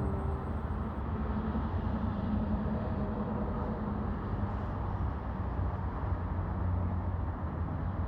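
Cummins diesel engine of a Freightliner M2 rollback tow truck running steadily, a low rumble with no revving.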